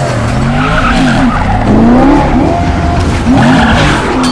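Car engines revving hard, their pitch rising and falling, with tyres squealing twice: about half a second in and again near the end.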